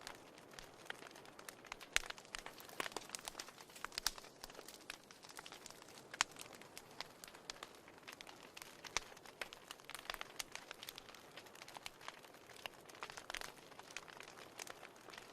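Fire in a fireplace crackling, with irregular sharp pops over a soft hiss.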